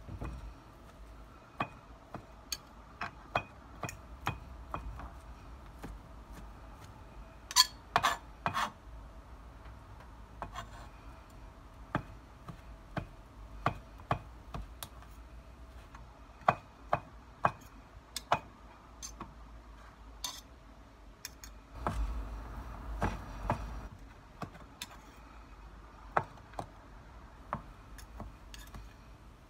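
Kitchen knife chopping grilled pork on a plastic cutting board: irregular sharp knocks of the blade striking the board, with the loudest few strikes about eight seconds in.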